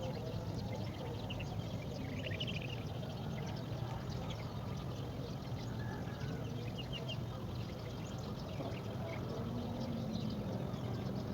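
A few short, high bird chirps over a steady low background hum, with a faint low rising tone near the end.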